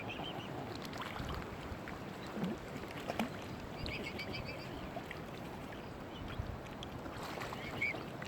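Steady lapping and washing of water at the shore, with short high chirping bird calls at the start, about four seconds in and again near the end.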